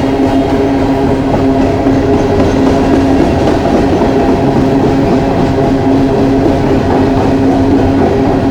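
Coal train's cars rolling steadily past below, a loud continuous rumble of steel wheels on rail with a steady hum running through it.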